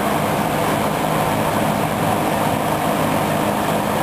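A 20-inch Dayton 4C418 box fan, a rebadged Lakewood P-23 with its Lakewood P-23 motor, running on high speed: a steady, loud rush of air with a low motor hum underneath.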